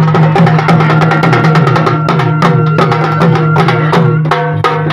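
Loud, fast drumming with dense strikes, played along with other music that holds sustained pitched notes.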